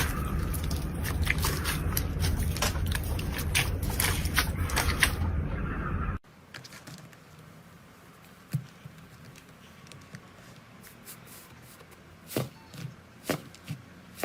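Close-up handling sounds of a squishy or crunchy material: a dense run of crackles and clicks over a steady low rumble, then after a sudden cut about six seconds in, a much quieter stretch of scattered single crunches and clicks.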